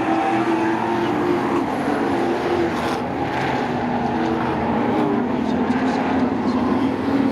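Several racing sport trucks running at speed on a short oval, their engines making a loud, steady, overlapping drone whose pitches rise and fall as the trucks go by.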